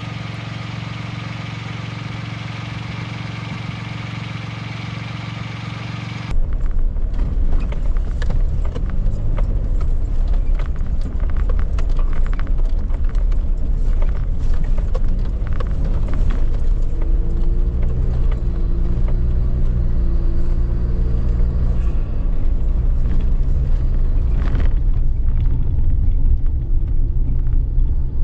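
Suzuki Jimny JB23 on the move along a rough forest road. A steady hum of engine and road noise cuts abruptly about six seconds in to a louder low rumble. That rumble is full of small crackles and rattles, and the engine note wavers under it.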